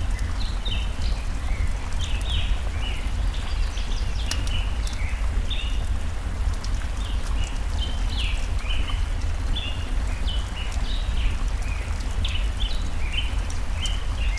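Layered forest ambience: birds chirping busily in short falling notes, a campfire crackling with sharp scattered pops, over a steady low rush of flowing stream water.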